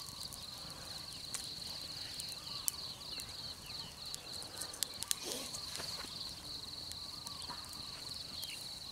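A steady, high-pitched chorus of insects, with scattered light clicks and rustles over it.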